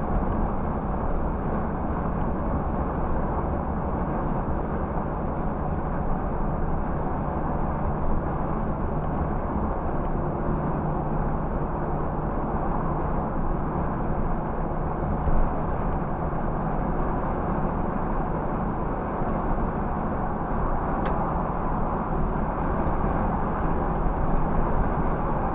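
Scania 360 bus on the move, heard from inside the cabin: a steady low engine drone under an even rush of road and tyre noise.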